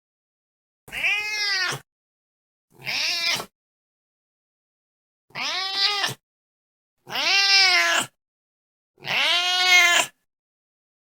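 Domestic cat meowing five times, each meow rising then falling in pitch and lasting under a second, with clean silent gaps between them.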